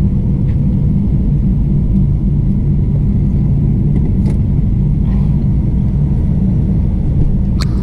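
A vehicle being driven: steady low engine and road rumble, with a short click near the end.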